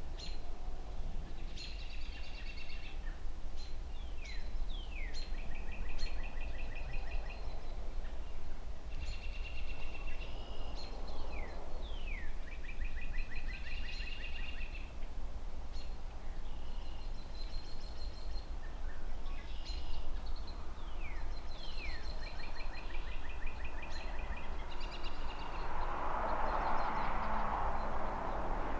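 A songbird repeats a short phrase about every four seconds: quick downward-slurred notes followed by a trill. Under it runs a steady low rumble of distant city traffic. Near the end a broad whooshing swell builds up.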